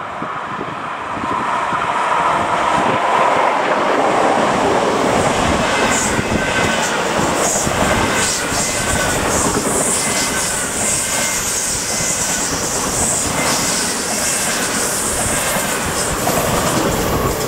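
ICE high-speed train passing close by: a steady rush of wheels on rail that swells over the first two seconds, with a regular clatter as the wheelsets cross rail joints.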